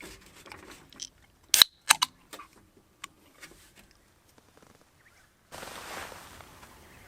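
A few sharp clicks close together, the loudest about a second and a half in, followed by a soft steady hiss that starts suddenly near the end.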